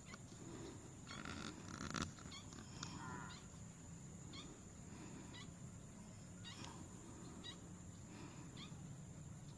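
A bird giving faint, short calls repeated every second or so, with a sharp click about two seconds in.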